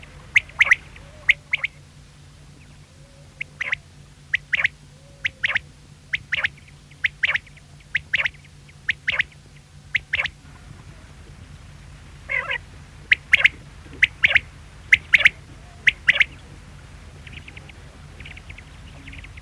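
Quail calling: short, sharp call notes repeated about once a second, with one longer wavering call about twelve seconds in, and the calls growing faint near the end. A steady low hum runs beneath.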